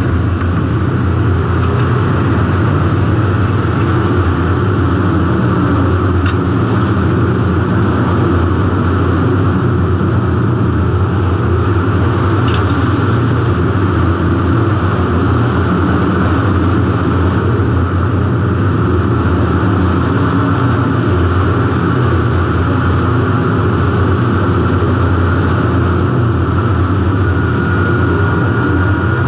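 Derby car's engine running loud and steady, heard close up from a camera mounted on the car, with a heavy low rumble and no distinct crashes.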